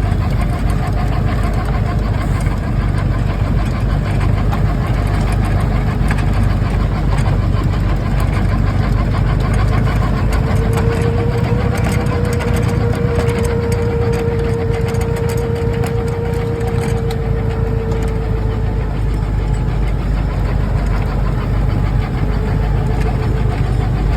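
Lovol 504 tractor's diesel engine running steadily, working a tractor-mounted Dalen 2004 snowblower. A steady whine comes in about ten seconds in and fades out near twenty seconds.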